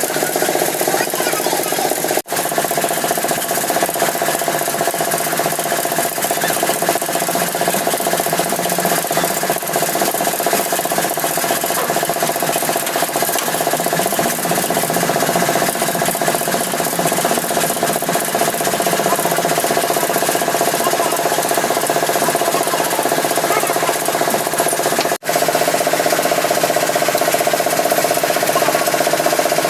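A machine running steadily with a constant hum and rattle, broken by two brief dropouts.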